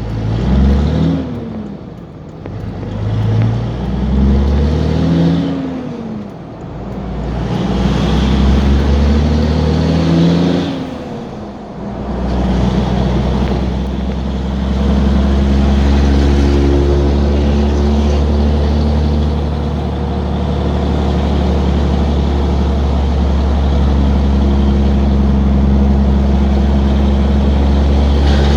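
Straight-piped 5.9-litre Cummins inline-six turbo diesel in a 2003 truck, loud through the open exhaust. For the first twelve seconds or so it climbs and drops in pitch several times as it pulls through the gears, then it settles into a steady drone at cruise.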